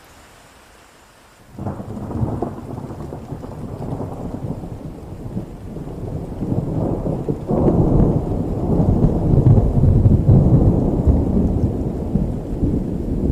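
Thunder rolling over steady rain. A sudden crack of thunder about a second and a half in becomes a long low rumble. A second, heavier peal starts about halfway through and swells to the loudest point.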